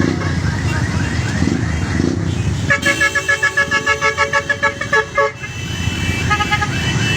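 Vehicle horn sounding in a rapid string of short beeps, about six a second, for roughly two and a half seconds starting about a third of the way in, with one more brief beep shortly after. Underneath is the steady running of idling motorcycle and tricycle engines.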